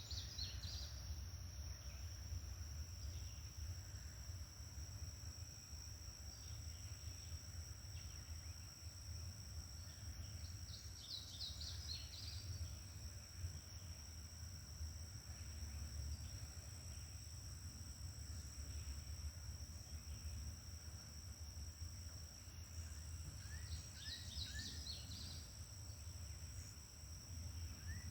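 Morning outdoor ambience: insects droning steadily on two constant high pitches, a bird singing short phrases three times (near the start, about 11 seconds in, and about 24 seconds in), over a steady low rumble.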